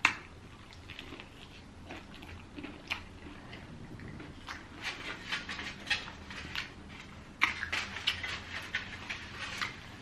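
A person chewing and biting into fried chicken: a series of short, crisp crunches and wet mouth clicks, busiest in the second half.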